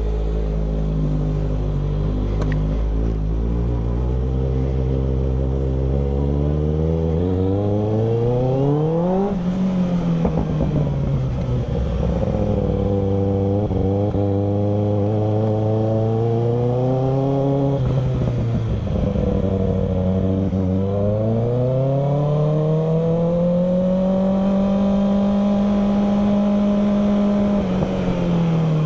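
Kawasaki ZX-6R 636 inline-four engine idling low for several seconds, then revving up and dropping back three times as the bike accelerates, and holding a steady high pitch before easing off near the end.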